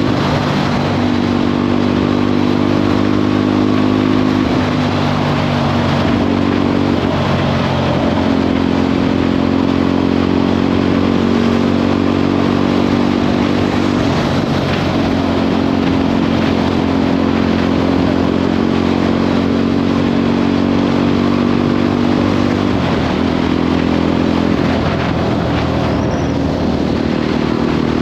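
Motorcycle engine running at cruising speed, heard from the bike, with wind and road hiss over it. The engine note shifts a few times as the throttle or gear changes.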